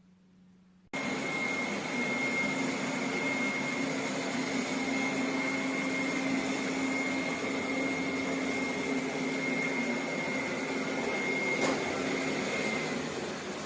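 A small motor or fan running steadily, a rushing noise with a high, even whine and a low hum, switching on abruptly about a second in; a single click comes near the end, and the whine stops shortly after.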